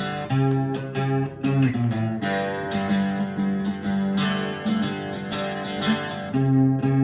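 Octave mandolin, a converted D'Angelico 12-string guitar strung with custom strings, picked through a melody in a quick run of notes over lower ringing notes.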